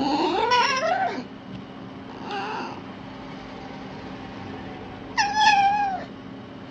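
A domestic cat meowing three times: a long meow that rises and falls at the start, a short faint one about two seconds in, and a louder falling meow about five seconds in, over a faint steady hum.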